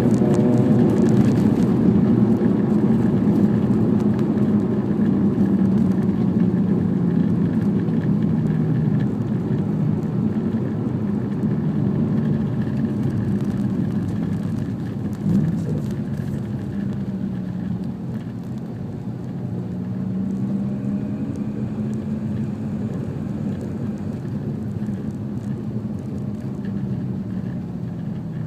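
Mazda RX-8's two-rotor rotary engine, through an RE Amemiya Ultimate Silent muffler, heard from inside the cabin while driving, with road noise beneath. The engine note drifts up and down with speed, there is a short thump about halfway, and it gets gradually quieter near the end.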